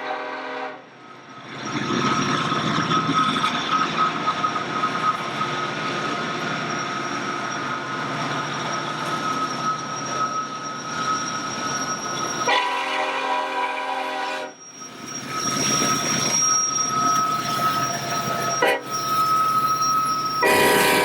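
Union Pacific intermodal train's diesel locomotive horn blowing: a blast that ends about a second in, a second blast of about two seconds midway, and a third starting near the end. Between the blasts the train runs by steadily, with rail noise and a thin, steady high-pitched wheel squeal.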